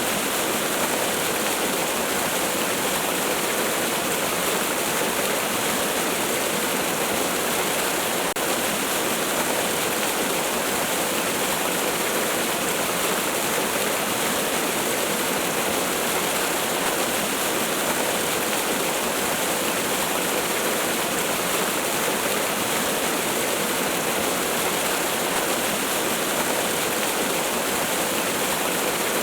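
Waterfall: a steady, unchanging rush of falling water, with little deep rumble.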